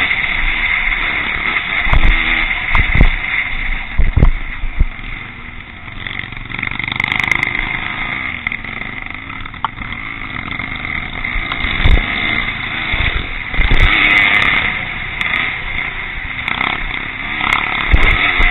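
Classic pre-1965 motocross motorcycles racing, their engines running continuously. The engine note rises and falls as riders open and close the throttle.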